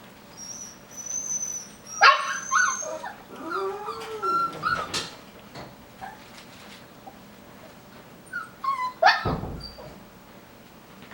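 Five-week-old Coton de Tulear puppies whimpering and yipping in short high cries, with one low rising-and-falling whine. Two sharp knocks, about two seconds in and again about nine seconds in, are the loudest sounds.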